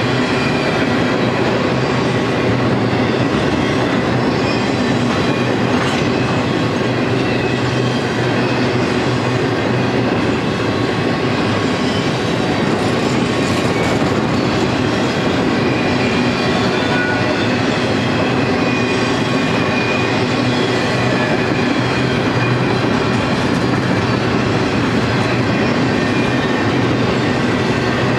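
Intermodal freight train cars rolling past, a steady, unbroken noise of steel wheels on rail.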